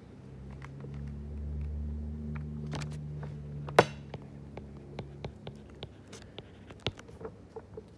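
Scattered key clicks and taps as a number is worked out, one sharper click about four seconds in, over a low steady hum that fades out a little past halfway.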